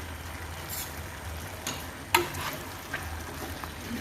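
Spoon scraping and knocking in a frying pan as an onion-and-spice masala with a green herb paste is stirred, the oil sizzling faintly underneath. There are about five short scrapes, the sharpest a little after two seconds in.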